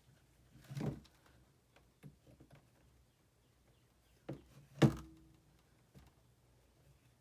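A few separate thunks, the loudest a sharp knock just before five seconds in that rings briefly.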